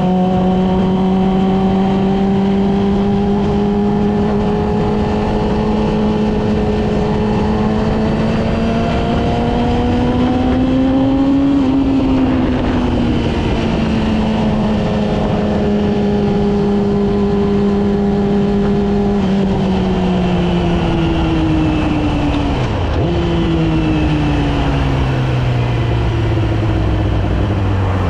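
Yamaha R6 inline-four engine running at steady riding revs under a rush of wind and road noise. The pitch climbs gently and eases back about halfway through, then falls away toward the end as the bike slows, with a short jump in pitch at a gear change.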